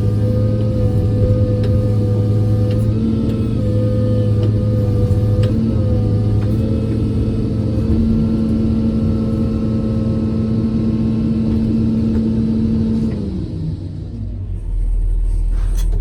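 John Deere excavator's diesel engine running under working load, its pitch stepping up and down several times as the hydraulics are worked. About 13 seconds in, the engine note drops and quiets, and a lower steady hum takes over.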